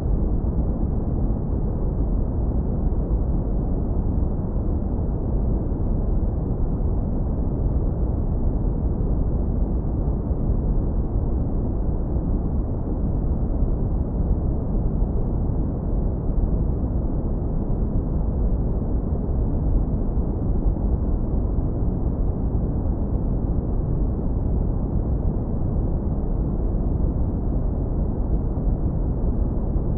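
Synthetic brown noise, low-pass filtered hard so only a deep, smooth rumble remains, steady and unvarying, with nothing above the low and middle range.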